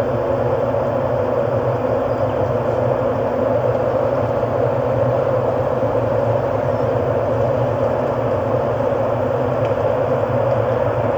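Steady ambient drone: a dense, hissing hum that holds without any beat, melody or breaks.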